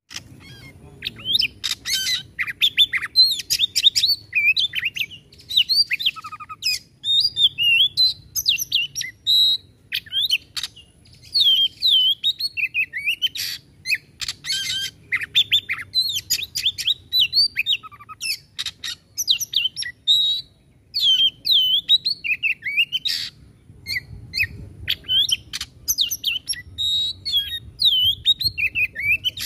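Oriental magpie-robin (kacer) singing a fast, varied song of whistled notes mixed with sharp, harsh clicking notes, the 'shooting' (nembak) style of an excited male, with brief pauses between phrases.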